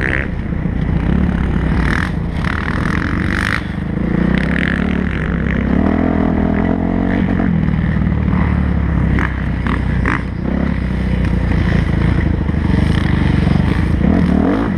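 Kawasaki motocross bike's engine running as it is ridden, its pitch rising and falling with the throttle, with a few sharp knocks about two to three seconds in and again around ten seconds.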